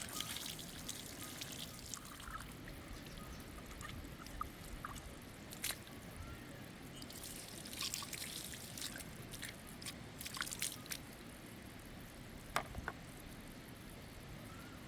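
Water trickling and dripping, with scattered small clicks and knocks: a cluster of them about seven to eleven seconds in and a sharp click shortly before the end.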